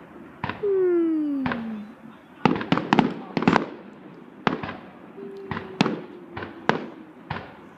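Fireworks going off in quick succession: a dozen or so sharp bangs, some in tight clusters, with a long falling tone near the start.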